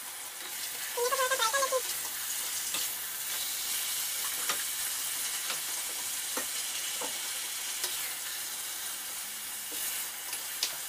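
Beef mince frying in hot oil in a steel pot while a wooden spoon stirs it: a steady sizzle with irregular scrapes and knocks of the spoon against the pot. A short pitched sound comes about a second in.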